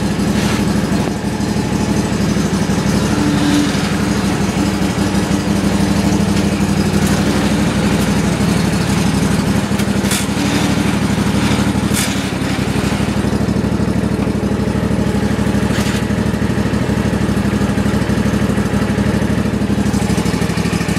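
Toro TimeCutter SS 5060 zero-turn mower engine running steadily, warmed through after a cold start, as the mower pulls out. A couple of sharp clicks come about ten and twelve seconds in.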